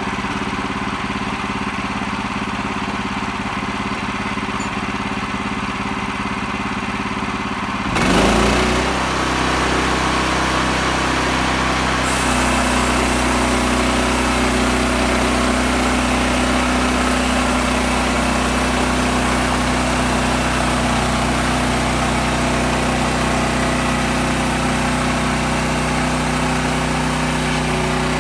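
Gas engine of a sawmill running steadily at a low speed. About eight seconds in it speeds up and the saw blade begins cutting through a cedar log, giving a loud, steady mix of engine and sawing noise that gets brighter a few seconds later.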